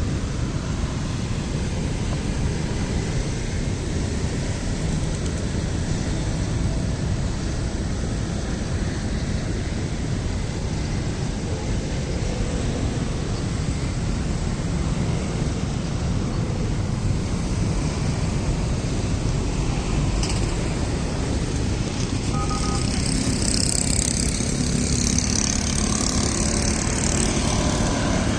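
Steady low rumble of outdoor background noise, with a short faint tone about twenty-two seconds in and a rise in hiss over the last few seconds.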